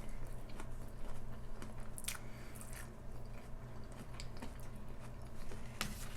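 Close-up eating: a person biting and chewing crunchy food, with a sharp crunch about two seconds in and another near the end.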